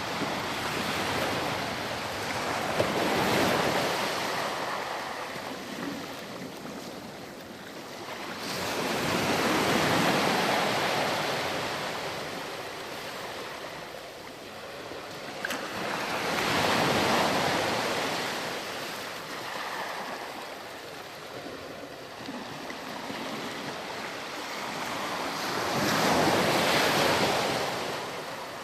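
Ocean surf breaking and washing up on a sandy beach, swelling and fading four times, about one wave every seven seconds.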